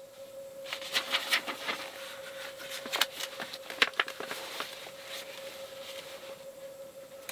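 A run of light clicks and small knocks, like objects being handled and set down, thickest in the first half and thinning out. Under them runs a faint, steady high hum.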